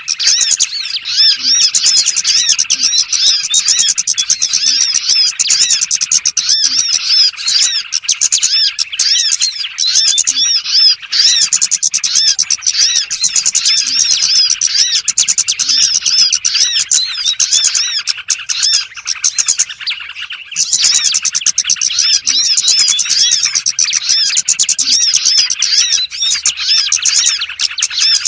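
Small birds chirping in a dense, continuous chorus of quick, high, arched chirps, a lure recording for calling in small birds. The chirping thins briefly about 20 seconds in, then resumes.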